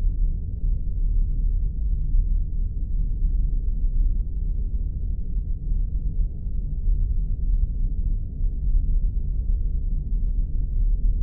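Spaceship-engine ambience sound effect: a steady, deep rumbling drone with faint scattered crackles above it.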